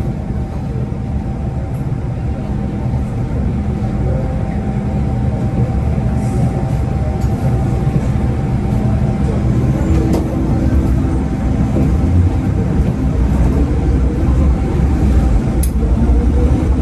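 Interior running noise of an MTR M-Train electric metro car pulling away and gathering speed: rumble of wheels on rail with a steady traction-motor whine, growing louder, and a tone that rises near the end as the train speeds up. A few light clicks are heard along the way.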